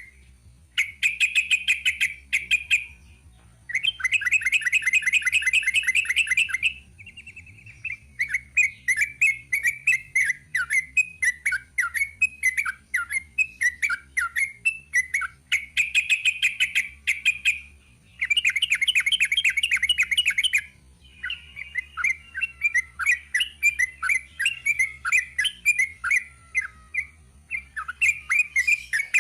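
Sooty-headed bulbul (trucuk) singing a long, rapid chattering song: fast runs of short notes and dense trills, broken by brief pauses about 3 s, 7 s and 18 s in and after about 20 s.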